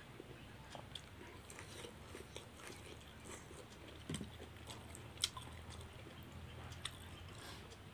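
Close-miked chewing and mouth sounds of a person eating rice with meat curry by hand: soft wet smacks and small clicks, with a sharper click about five seconds in, over a faint steady low hum.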